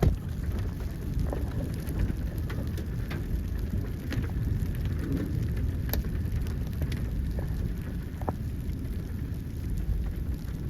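Rain on a vehicle during a severe thunderstorm: a steady low noise with scattered sharp ticks of drops striking.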